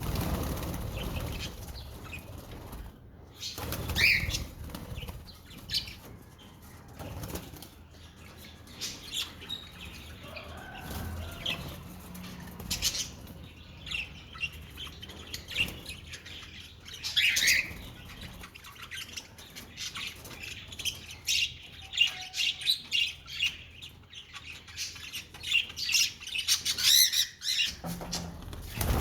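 A flock of budgerigars chirping in short, scattered calls, with wings flapping as they flutter about. The calls grow busier near the end.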